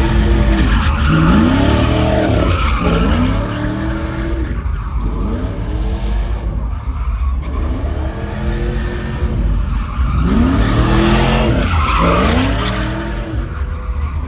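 Truck engine revving hard, rising and falling over and over every second or two, with tires screeching as they spin in a burnout.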